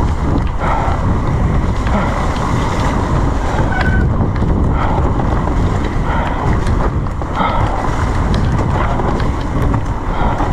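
Loud, steady wind rush over the camera microphone while riding an e-mountain bike fast downhill.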